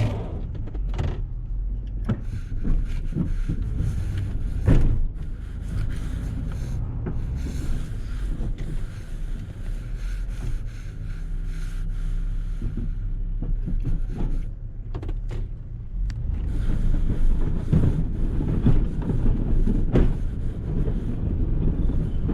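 Snow plow vehicle's engine running as the plow pushes heavy, sticky snow, with a few sharp knocks. The engine note holds steady for a few seconds around the middle, and the noise grows louder over the last several seconds.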